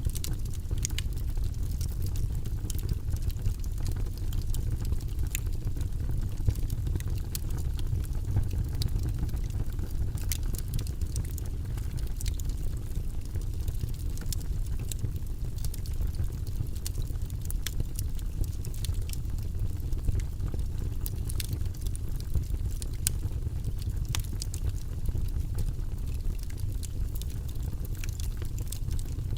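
Wood logs burning in a fireplace: a steady low rumble of flame with frequent sharp crackles and pops scattered throughout.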